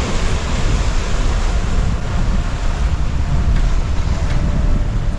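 Strong wind buffeting the microphone with a heavy rumble, over the steady rushing hiss of large breaking waves and water around a sailing yacht in rough seas.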